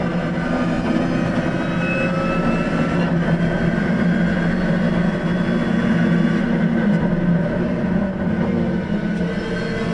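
Lotus Exige's engine heard from inside the cabin, running under load at fairly steady revs on track, over a haze of wind and road noise; it eases slightly near the end.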